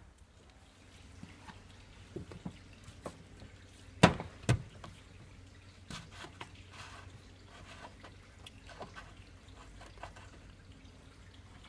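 Water dripping, with scattered small clicks and knocks of handling and two louder knocks about four seconds in.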